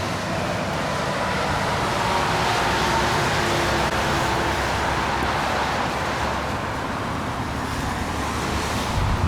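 Steady vehicle noise: a low rumble with an even hiss over it.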